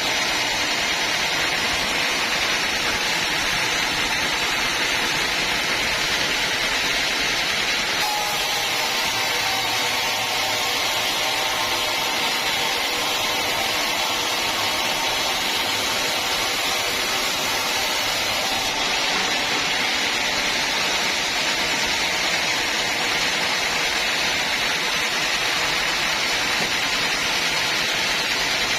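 Steady, hissing machine noise of a band sawmill at work on a log, with small shifts in tone about 8 and 19 seconds in.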